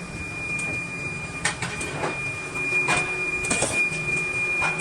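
A metalworking machine running with a steady high-pitched whine, with scattered metallic clinks and knocks about once a second.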